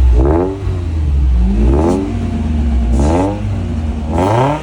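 Performance car engine revving up four times in quick succession, each rev a rising pitch, over a deep steady rumble.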